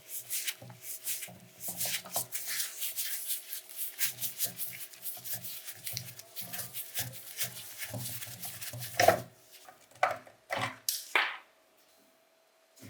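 Quick rubbing and scraping strokes by hand on the rusty grinder's parts, with a few separate louder scrapes near the end before it stops.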